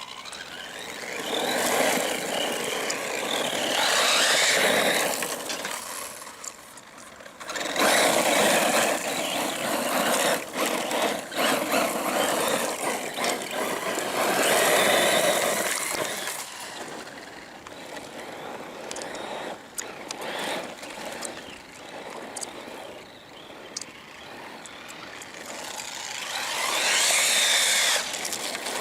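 1:10-scale electric RC cars driving past again and again, with motor whine and tyre noise swelling and fading on each pass.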